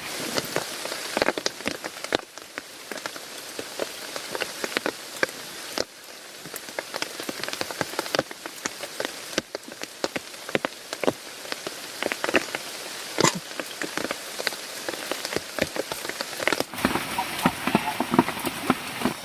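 Steady rain falling, with many sharp drops tapping close by.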